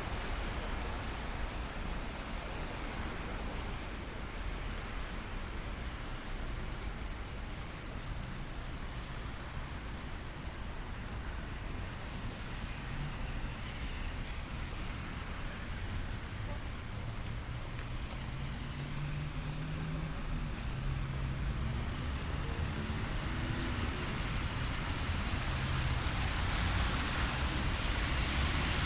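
City street in rain: a steady hiss of rain over a low traffic rumble. About two-thirds of the way through, a passing vehicle's engine rises in pitch, and a broad hiss swells near the end.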